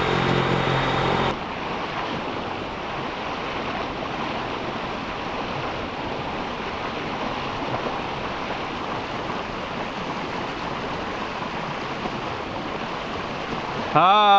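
A boat engine drones steadily, then cuts off abruptly about a second in. A steady rushing of water and wind follows.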